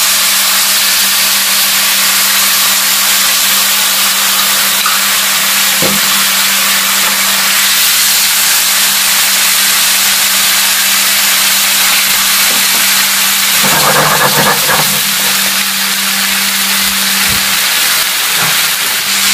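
Marinated chicken pieces sizzling loudly as they fry in butter in a hot frying pan, turned now and then with a spatula, over a steady low hum.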